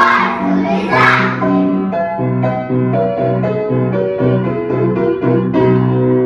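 Instrumental music on a keyboard instrument: a melody in held notes over a steady bass line. Voices cut across it briefly in the first second or so.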